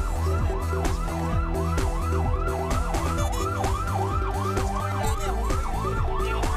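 Fire truck siren in a fast yelp, rising and falling about three times a second, over background music with a steady beat.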